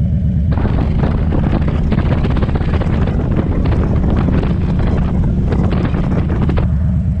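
Motorcycle engine idling steadily. From about half a second in until near the end, crackling wind buffeting on the microphone lies over it, then drops away suddenly.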